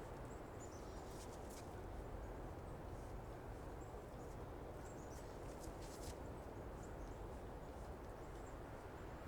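Quiet outdoor forest ambience: a steady low hush with small birds giving high, thin chirps, some falling in pitch. A few short clicks come about a second and a half in and again about six seconds in.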